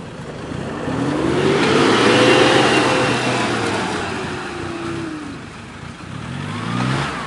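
Off-road 4x4 engine revving hard, climbing in pitch then easing off over a few seconds, with a broad rushing noise under it, loudest about two to three seconds in.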